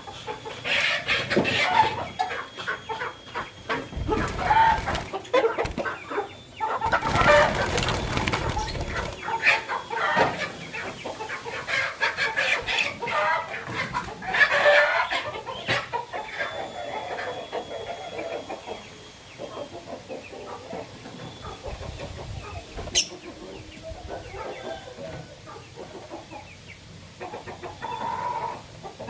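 Lovebird chirping and chattering: many short, sharp calls in quick runs, busiest in the first half and sparser towards the end.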